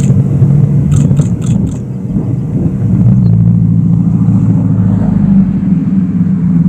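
Car driving along: a steady low engine and road drone that swells slightly about three seconds in, with four short high-pitched beeps about a second in.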